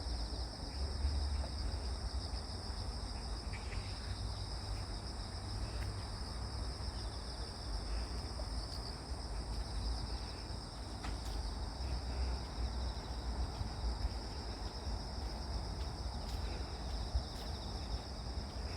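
A chorus of crickets and other grass insects chirring in a continuous high-pitched trill, over a steady low rumble.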